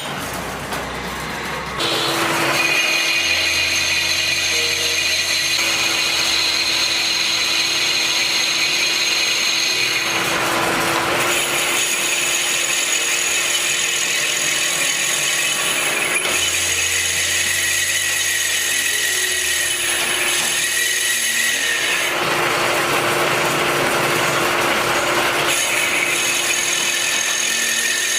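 An electric power tool running steadily with a sustained whine, likely working metal for the tool being made.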